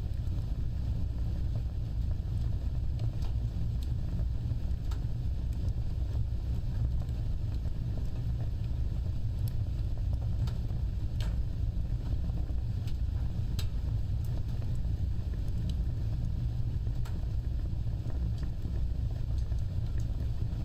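Wood fire burning with a steady low roar of flames and scattered sharp crackles and pops, about one every second or two.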